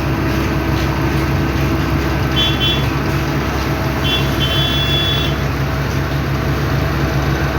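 Heavy diesel construction machinery running steadily with a loud, low drone. Short high beeps sound twice, about two and a half seconds in and again around four to five seconds in.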